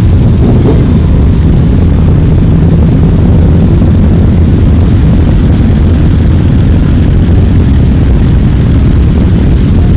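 Loud, steady, low rumble of motorcycle engines, unbroken throughout.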